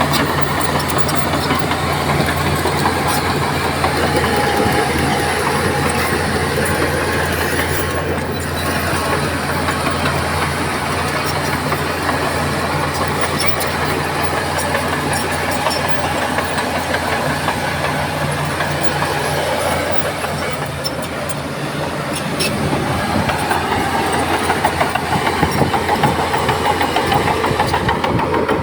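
Heavy diesel earth-moving machinery running steadily under rough, noisy rumble. The engine's steady low hum fades about three-quarters of the way through, and a louder, rougher noise takes over.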